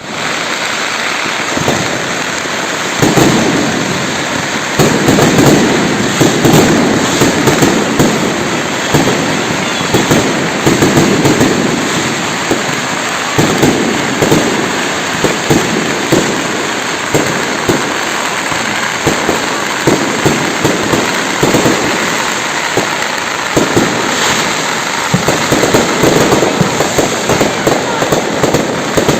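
Fireworks going off continuously, a dense run of sharp crackling pops and bangs over a steady noisy hiss, with heavier booms every few seconds.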